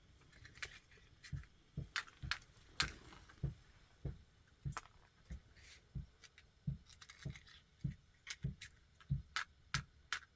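Light, irregular knocks and clicks of hand work on the building, roughly one or two a second.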